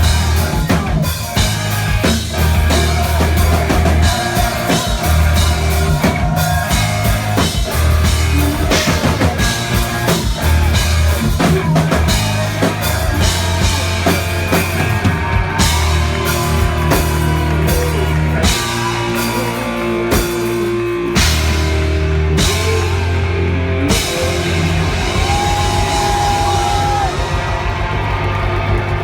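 Live rock band playing loud, with drum kit hits over held bass notes and electric guitar.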